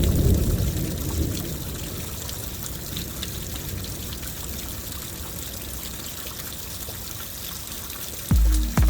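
Heavy rain pouring and trickling, with a low thunder rumble dying away over the first second or so. Near the end a run of loud, regular low thumps starts, about two a second.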